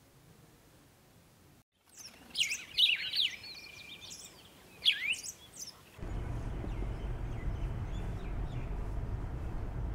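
Faint room tone, then birds chirping in quick rising and falling calls for about four seconds, loudest about three and five seconds in. The chirps cut off abruptly and are replaced by the steady low rumble of a car heard from inside its cabin.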